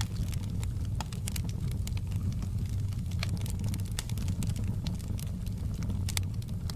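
Wood fire burning in a stone fireplace: a steady low rumble with frequent sharp, irregular crackles and pops.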